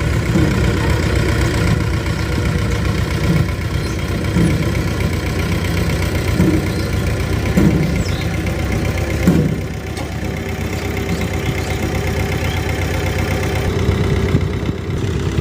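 Diesel engine running steadily at idle, with a few brief louder moments around the middle.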